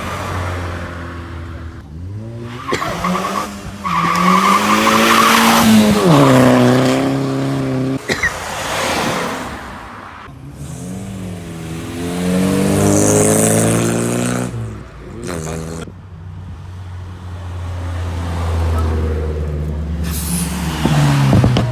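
Cars accelerating hard past one after another, each engine revving up in a rising run, with tyre noise. There are three main pulls: one about three seconds in that climbs and then drops sharply, one around eleven seconds and a shorter one near the end.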